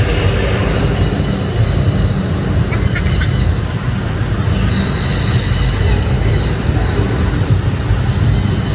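Simulated indoor rainforest downpour: a steady rush of falling water with a deep rumble underneath, and thin steady high-pitched tones over it.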